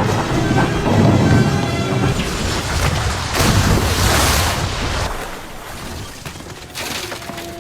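Action-film soundtrack: music under heavy booming and rumbling crashes that come in loud surges, then die down about five seconds in.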